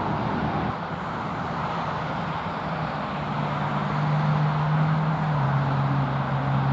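Motor vehicle engine and road noise, with a steady low hum under a noisy rush. The hum drops to a lower pitch about five seconds in.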